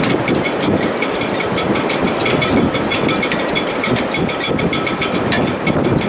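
Gale-force wind in a sailboat's rigging: a steady rushing roar with the shrouds and stays whistling faintly at a few held pitches, and a rapid, even fine clicking over it.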